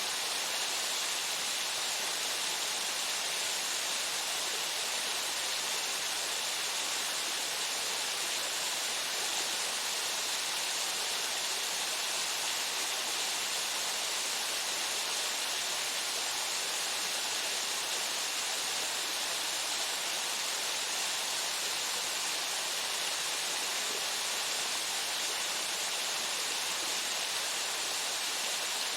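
Waterfall pouring steadily into its pool: an even, unbroken rush of falling water, strongest in the hiss range.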